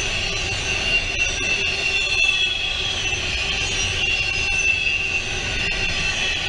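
Intermodal freight train of highway trailers on flatcars rolling past, a steady low rumble with scattered clicks from the wheels on the rail. Over it the steel wheels squeal with high, wavering tones.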